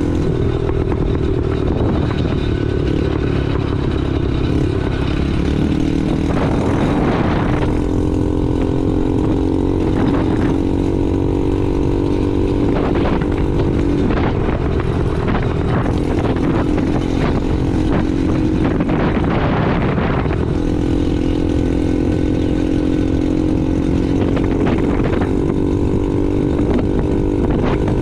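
Honda Navi minibike's small single-cylinder engine running steadily under way, with its CVT note wavering a few times as the throttle changes, over wind and road noise.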